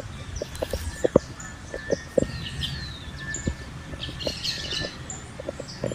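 Several birds chirping in the trees, short high calls mixed with a few falling whistles, over a faint steady high tone and scattered soft low knocks.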